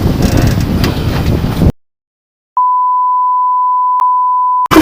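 Wind noise rushing on the microphone aboard a sailboat, cut off abruptly into dead silence. Then a steady, single-pitched censor bleep runs for about two seconds.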